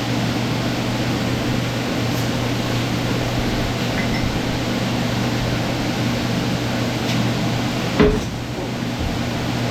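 A steady machine hum runs throughout, with one sharp knock about eight seconds in.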